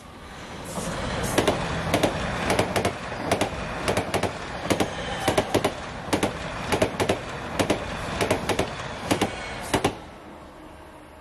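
Class 745 electric multiple unit passing at speed: a rushing noise that builds in about a second, with a long run of sharp wheel clicks over the track, many in quick pairs, then fading away after about ten seconds.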